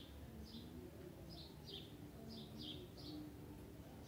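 Faint bird chirps: short high notes repeated roughly every third to half second, with a few pauses between groups.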